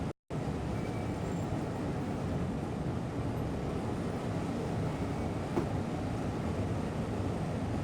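Steady rumble of a moving train heard from inside the cab. The sound cuts out briefly just after the start, and there is a faint click about halfway through.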